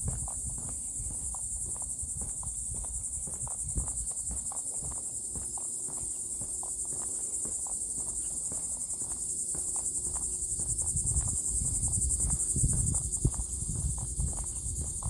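Steady high-pitched insect chorus with a fine, fast pulse, over irregular low knocks and rumble that get louder near the end.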